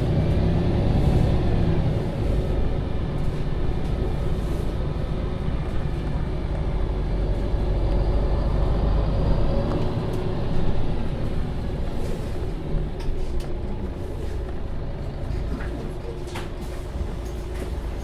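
MAN Lion's City (NL 283) city bus driving, heard from on board: the diesel engine and driveline run steadily under way, with pitch glides in the first couple of seconds. A few sharp rattles come near the end, and the sound eases off slightly over the last few seconds.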